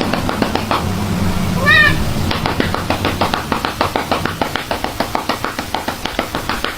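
A domestic cat meowing once, a short call rising and falling in pitch about two seconds in, over a fast series of clicks.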